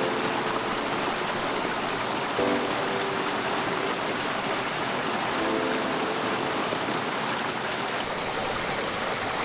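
Steady rush of a mountain stream, with soft background music notes sounding about every three seconds.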